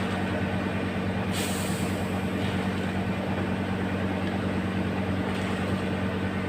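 Diesel tanker truck engine running steadily while fuel is being pumped across to the other truck, with a short hiss about a second and a half in.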